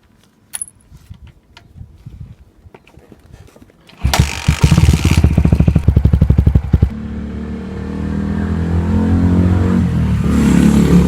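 A few faint clicks, then about four seconds in the Suzuki Grasstracker Big Boy's air-cooled single-cylinder engine starts. Rapid even pulses as it fires for a few seconds, then it settles into a steady running note that slowly grows louder.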